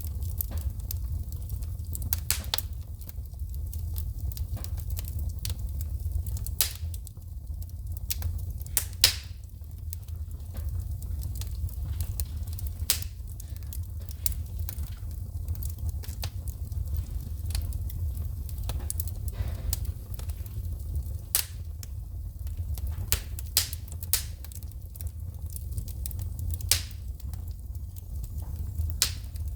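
Wood fire burning in a fireplace: a steady low rumble of the flames with irregular sharp pops and crackles as the wood throws sparks, one pop standing out about nine seconds in.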